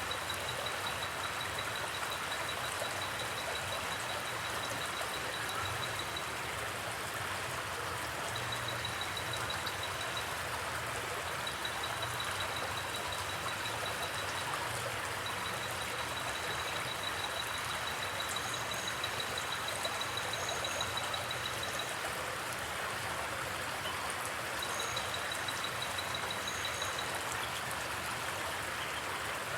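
Steady rushing of flowing water, with a faint, high, rapid ticking that comes and goes in stretches of a few seconds.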